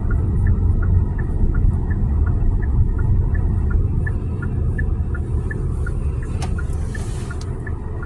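Car interior road and engine rumble while driving, steady and heavy in the low end, with a regular light tick-tock clicking of about three ticks a second. A single sharp click comes near the end.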